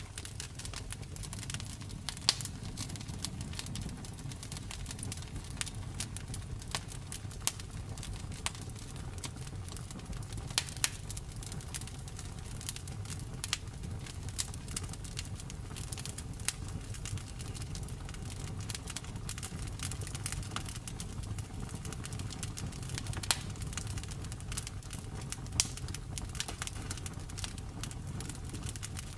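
Wood fire burning with a steady low rumble and frequent crackles and sharp pops of burning logs.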